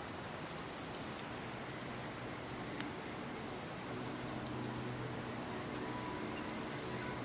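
Evening insect chorus, a dense steady high-pitched trilling, over the even rush of a river.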